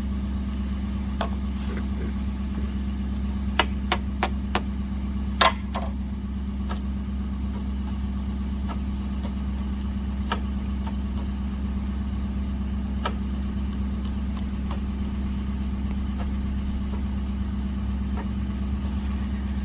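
Diesel semi truck engine idling steadily, with sharp metal knocks on the seized fifth-wheel parts: a quick run of four a few seconds in, the loudest one soon after, then a few single taps spaced out.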